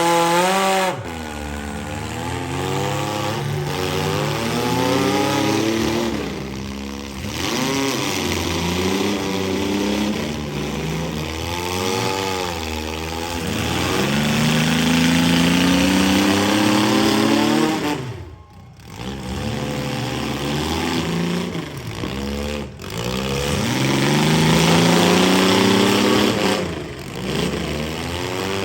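Engines of compact and midsize demolition derby cars revving up and falling back again and again, several at once, as the cars accelerate and reverse into each other. The sound drops away briefly about two-thirds of the way through.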